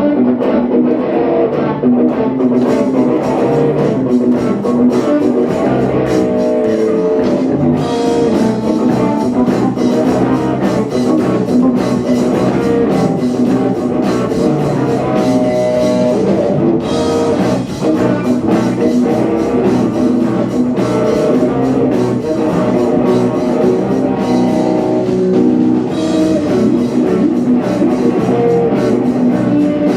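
Live rock band playing an instrumental passage, with electric guitar over a drum kit.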